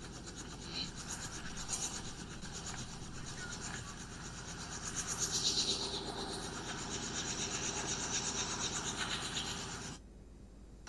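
Helicopter rotor and engine running on the ground after landing: a steady, rapid rasping pulse that cuts off abruptly near the end.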